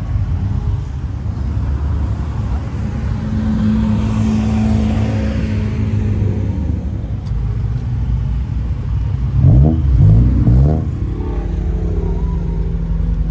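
Car engines idling with a steady low rumble, and one engine revved sharply three times in quick succession about nine and a half seconds in.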